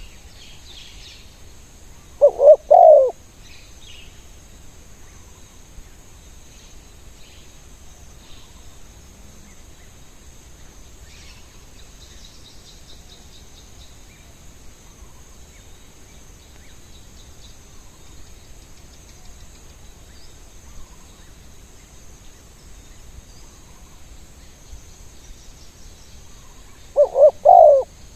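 Spotted dove cooing: a short phrase of several low notes about two seconds in, and another near the end. Small birds chirp faintly in between.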